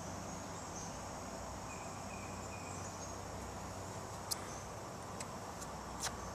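Faint steady outdoor ambience with an even high-pitched insect chirring and a low hum, broken by a few brief faint clicks in the second half.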